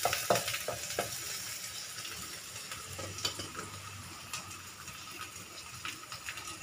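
Sliced onion and curry leaves sizzling in oil in a non-stick wok, frying until a bit crispy. A spatula knocks and scrapes against the pan a few times in the first second and once more a little after three seconds.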